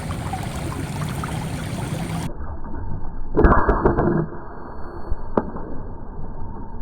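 PCP air rifle shot: a sharp crack with a short rush of noise about three and a half seconds in, and a single click about two seconds later.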